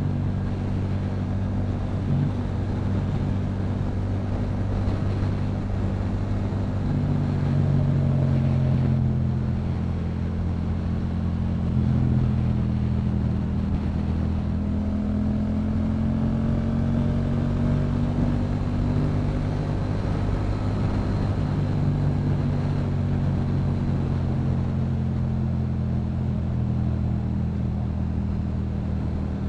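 Yamaha MT-07's parallel-twin engine through a Yoshimura aftermarket exhaust, running at a steady cruise. The engine note rises and falls gently a few times with the throttle, a little louder around a third of the way in.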